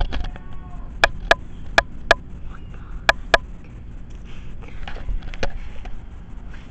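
Six sharp knocks in three quick pairs, each pair about a third of a second apart, with a faint brief vocal sound just before them.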